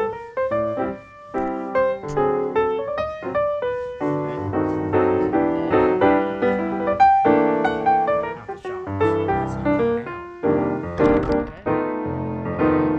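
Background piano music: a run of quick notes and chords played on a piano throughout.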